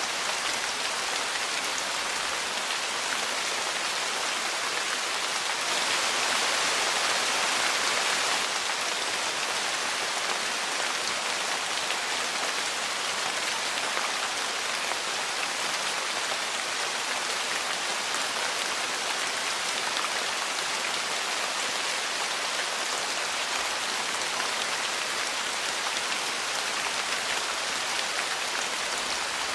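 Steady, dense rain falling on a porch, a little heavier for a couple of seconds about six seconds in.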